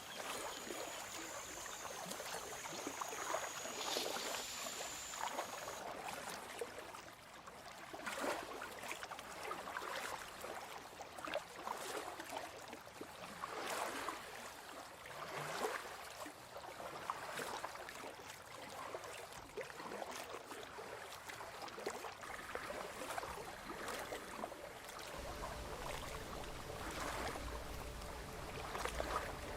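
Kayak paddle strokes dipping and splashing in calm water, a soft splash every couple of seconds.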